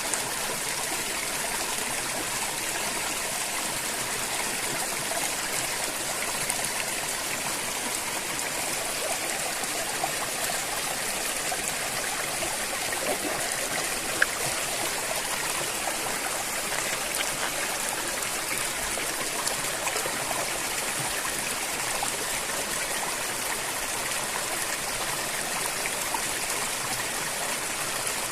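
River water flowing and trickling over stones in a steady, even rush, with one brief sharp tick about halfway through.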